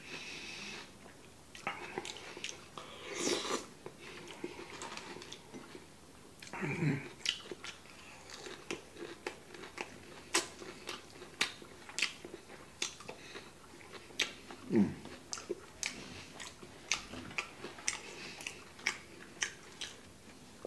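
A man chewing food close to the microphone. A quick run of short smacks and clicks fills most of the stretch, with a few brief low hums between mouthfuls.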